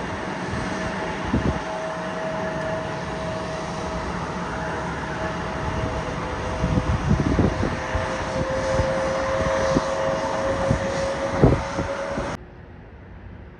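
Airplane engines running loud and close: a broad rushing noise with a steady whine that sinks slightly in pitch, and a few low thumps. The sound cuts off suddenly near the end to a much quieter background.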